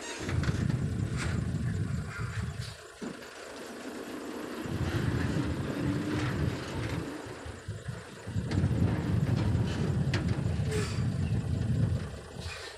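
A heavy earthmoving machine's engine running, swelling and easing twice as it works under load, with a few sharp metallic clanks.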